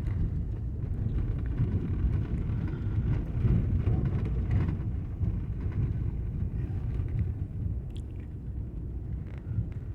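Car driving, heard as a steady low rumble of engine and tyres on the road.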